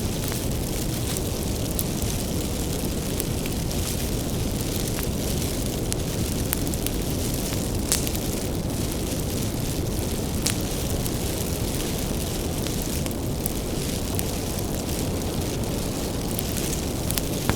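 Wood bonfire burning: a steady low rumble of flames with scattered sharp crackles and pops from the firewood, a few louder pops standing out.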